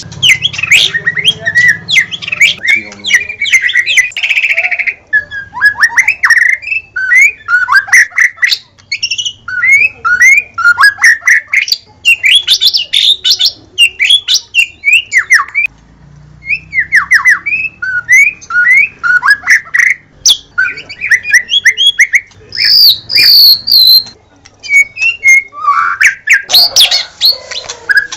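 White-rumped shama (murai batu) singing: a fast, varied run of whistled phrases, sweeping notes and sharp clicks in quick succession, with a few higher-pitched whistles near the end.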